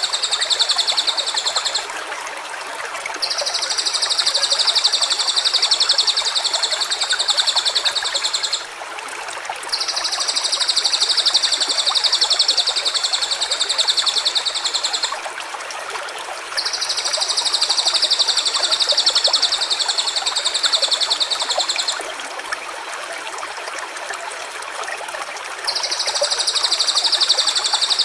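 A high, fast-pulsing trill sung in long even phrases of about five seconds, five times with short pauses between, over a steady rush of flowing water.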